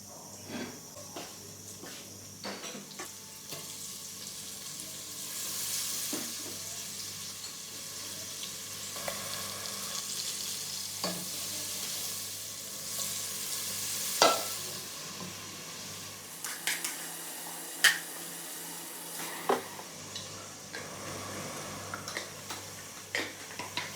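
Food sizzling as it fries in a pan and is stirred, with a utensil clicking and scraping against the pan now and then.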